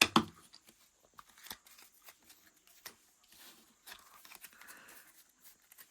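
Faint, scattered rustling and small clicks as foil card packs and trading cards are handled, with a sharper click at the very start.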